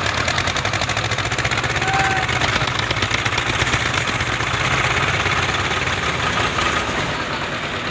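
Tractor diesel engines running under load with a rapid, even knocking beat.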